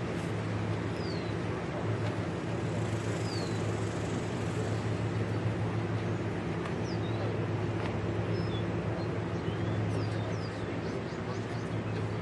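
Steady low drone of a running engine, with short high bird chirps scattered through it.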